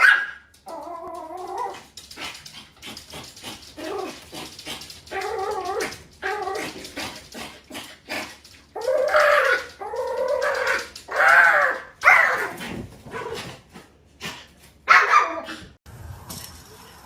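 A dog whining and yelping in a string of drawn-out cries that bend up and down in pitch, about eight of them with short gaps between, a dog protesting a nail trim.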